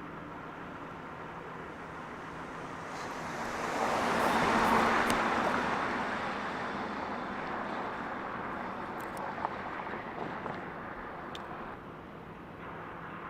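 Road traffic with one vehicle passing close by, growing louder to a peak about four to five seconds in and then slowly fading back into the steady traffic hum.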